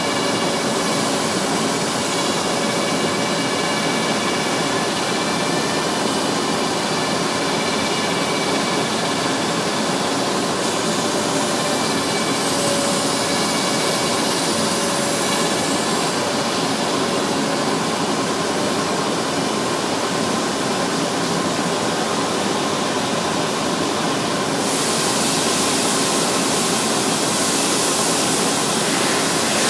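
Propeller sanding machine running: a steady rushing noise with several steady whining tones. About 24 seconds in, the hiss grows brighter and a little louder.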